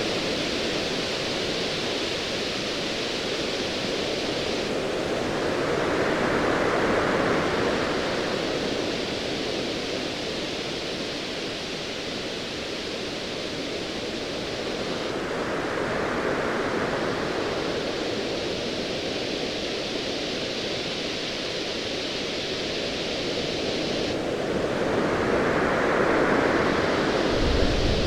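Ocean waves washing in and drawing back, swelling in slow surges about every ten seconds under a steady hiss of surf. A deep rumble of distant thunder starts near the end.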